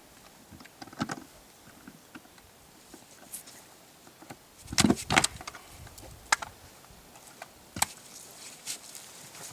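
Scattered clicks and metallic knocks from handling an outboard motor cart, with a cluster of loud knocks about five seconds in and single sharp clanks about a second and about three seconds after that.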